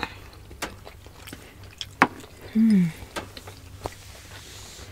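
Close-up mouth sounds of eating steamed siomai dumplings: scattered soft chewing and smacking clicks, with a short falling 'mm' hum about two and a half seconds in.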